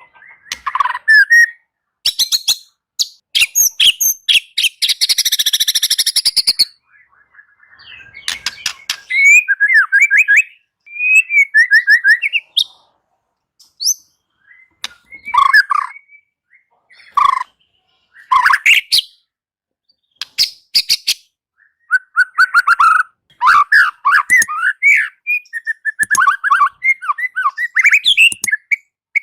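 White-rumped shama (murai batu) singing loud, varied phrases broken by short pauses: fast dry rattling runs early on, then quick whistled warbles and sliding notes.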